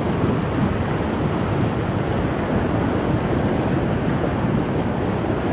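Steady rushing of the Ocoee River's whitewater, an even noise with no breaks.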